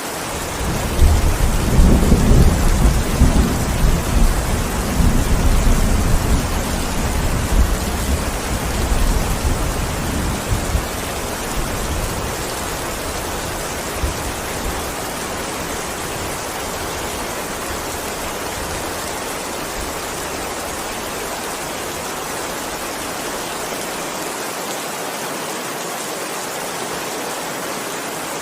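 Heavy, steady rain hissing, with a long deep rumble of thunder that starts about a second in. The rumble is loudest over the first few seconds and rolls away over about ten seconds.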